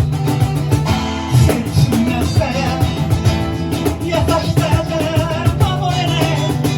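Live rock band playing: electric guitar and drum kit with a singing voice over them.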